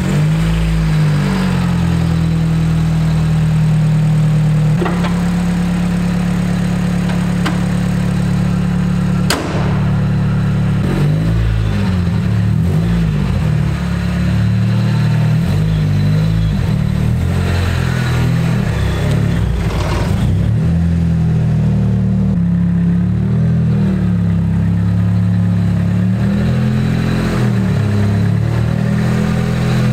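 Nissan 200SX S14's SR20DET turbocharged four-cylinder engine running at idle just after a start, its revs rising and falling now and then as the car is moved slowly. A single sharp knock about nine seconds in.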